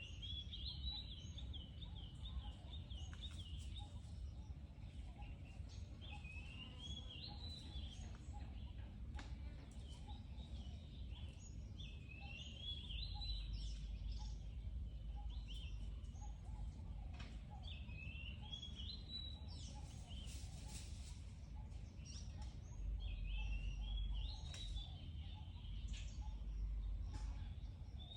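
A bird singing, with repeated short warbling phrases that rise and fall in pitch, coming every few seconds. A steady low rumble runs underneath.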